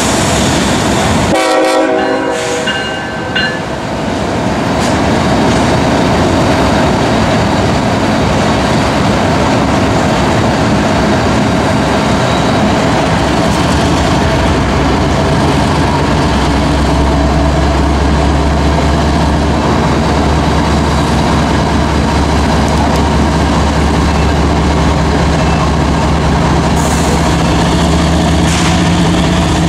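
A freight train rolls past steadily, with a short diesel horn blast about two seconds in. From about halfway, the low drone of approaching BNSF diesel locomotives builds up and holds.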